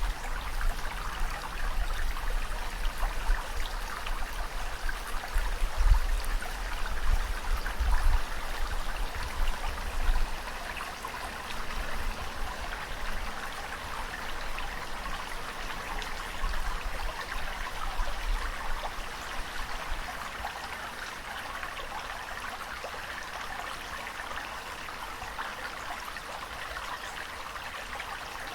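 Steady rush and trickle of running water, with uneven low rumbles in the first ten seconds or so that then die away.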